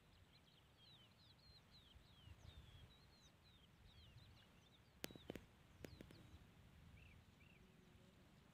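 Faint birdsong: small birds chirping in quick, short high calls, thickest in the first few seconds. Three sharp clicks come about five to six seconds in, over a faint low rumble.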